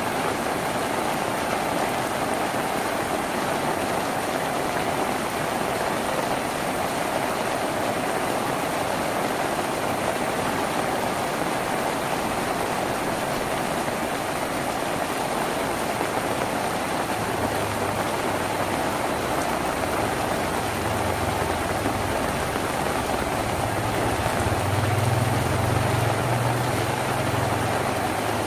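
Steady rain drumming on a tin roof. A low rumble joins in the second half and is loudest near the end.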